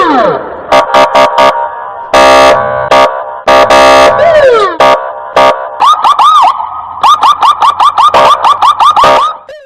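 Car alarm siren cycling through its tone patterns: falling whoops, then a series of short and longer blasts, then a fast warble over the last few seconds before it cuts off.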